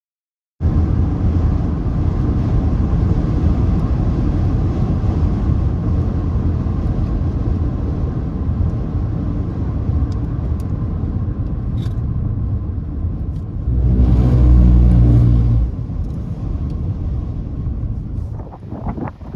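Steady low rumbling noise that starts abruptly just after the start, with a louder surge of about two seconds a little past the middle.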